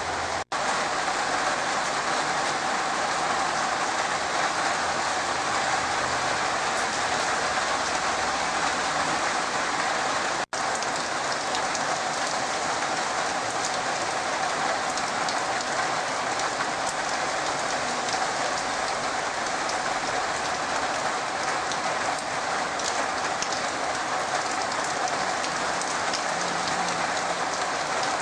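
Heavy rain falling steadily on the ground and through the branches of trees and shrubs, an even hiss throughout. Twice the sound drops out for an instant, about half a second in and about ten seconds in.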